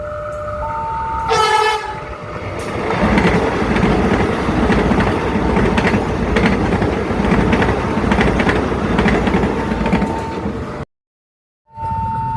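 Railway level-crossing alarm alternating between a low and a high tone, then a short blast of a train horn about a second and a half in, followed by a train passing with its wheels clattering over the rail joints. The sound cuts out briefly near the end and the two-tone alarm comes back.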